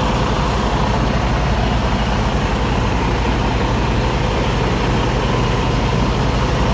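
Semi truck's diesel engine running steadily at low revs while the rig reverses slowly.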